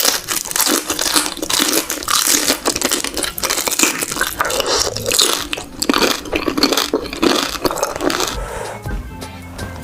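Close-miked eating sounds: biting into and chewing juicy beef large intestines, with dense wet, crackly crunching. Background music comes in near the end.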